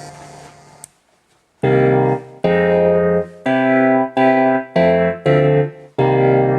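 KORG Kaossilator synthesizer playing a keyboard-like preset: a previous tone fades out, a click, then a phrase of seven separate notes, the last one held and ringing on.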